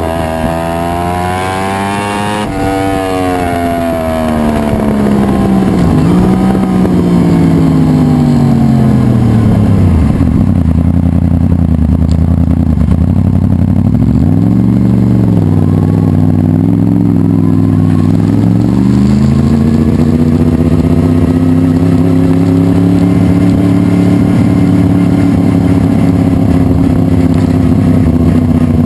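A fully built 2011 Yamaha R1's crossplane inline-four engine running in neutral, its note falling over the first several seconds, wavering, then holding steady for the second half.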